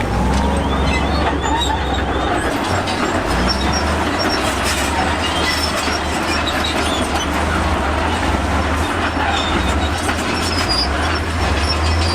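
Komatsu crawler bulldozer working, its diesel engine running under load while the steel tracks clank and squeal, with short high squeals scattered through.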